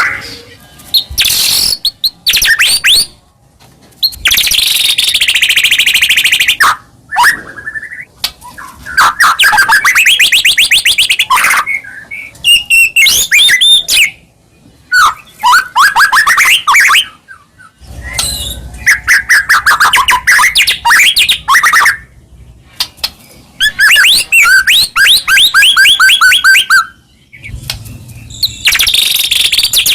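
White-rumped shama (murai batu) in full, energetic song: loud phrases of fast trills and rapidly repeated whistled notes, broken by short pauses.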